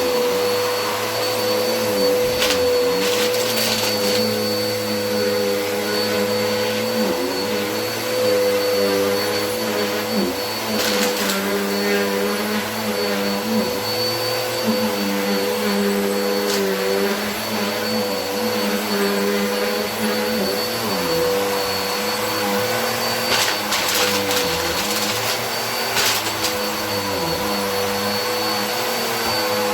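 Vacuum cleaner running steadily, its motor whine shifting slightly in pitch as it is pushed along, with occasional brief rattles of dirt being sucked up.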